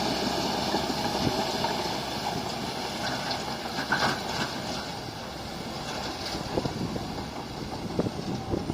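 Bulldozer's diesel engine running steadily, with a couple of short knocks about four and eight seconds in.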